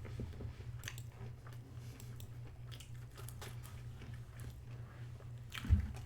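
A person chewing a chicken burger and fries, with small irregular crunches and clicks, and one louder thump near the end.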